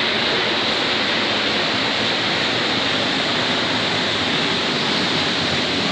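Waterfall pouring steadily into a river pool, an even rushing of water.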